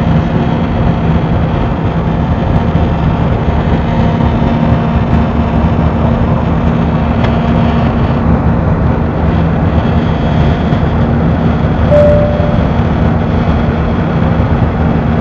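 Airliner cabin noise in flight: the steady rush of engines and airflow with a constant low hum. A brief single tone sounds about twelve seconds in.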